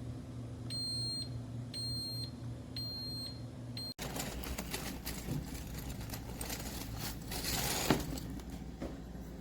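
Three high electronic beeps, about half a second each and evenly spaced, from a Ninja DualBrew Pro coffee maker over a low steady hum. After an abrupt break about four seconds in, rustling and handling noise follows.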